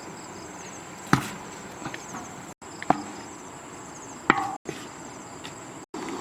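Three sharp chopping strikes, spaced a second or two apart, over a steady high chirring of insects. The sound drops out briefly several times.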